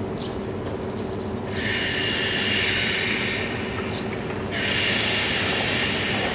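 A JR 189 series electric train standing at the platform, its equipment giving a steady low hum, with two hissing bursts of about two seconds each, about a second and a half in and again about four and a half seconds in, each cutting off suddenly.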